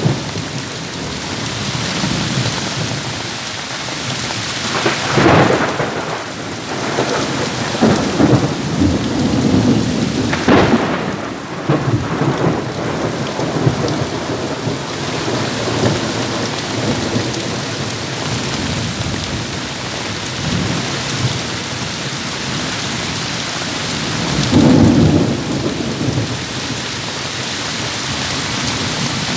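Heavy rain falling steadily in a thunderstorm. Thunder rumbles in swells about five seconds in, again from about eight to eleven seconds, and once more near twenty-five seconds.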